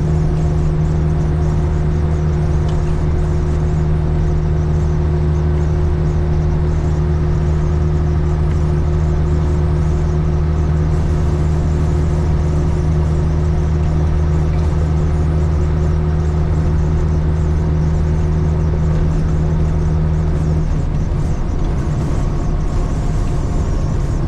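Cat 3406E diesel of a Freightliner FLD120 semi running steadily at highway cruise, heard inside the cab as an even drone with road noise. About 21 seconds in, the engine note shifts and drops slightly.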